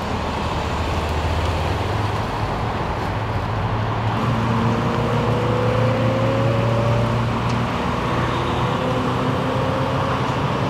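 Vehicle engines running over steady freeway traffic noise; about four seconds in, another engine note joins and rises slowly in pitch.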